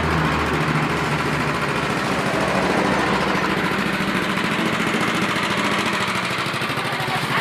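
Homemade rice threshing machine running steadily, its motor and threshing drum making a continuous mechanical drone.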